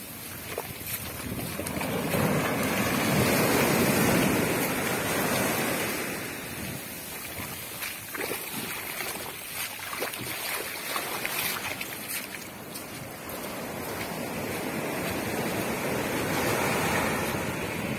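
Ocean waves breaking and washing up on a beach, swelling twice, with some wind buffeting the microphone.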